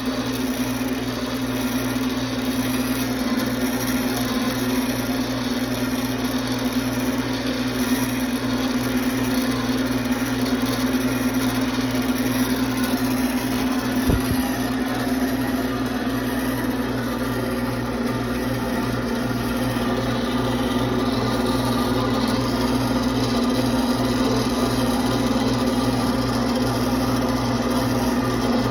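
An electric power tool running steadily with a constant hum while shaping a piece of hardwood. There is one brief low thump about halfway through.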